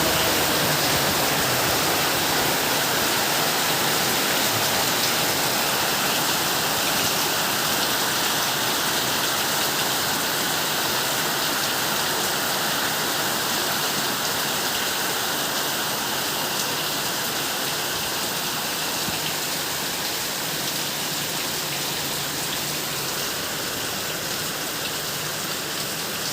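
Heavy, steady downpour of rain: a dense, even hiss of rain falling and splashing on surfaces.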